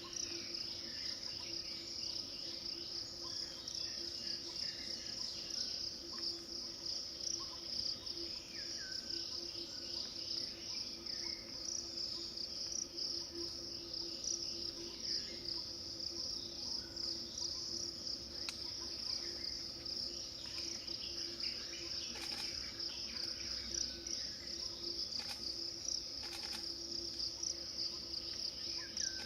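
Steady, high-pitched chorus of insects, with faint short bird chirps scattered through it.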